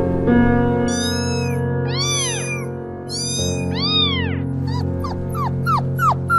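Cat meowing over background music: several drawn-out meows rising and falling in pitch, then a quicker run of short meows near the end.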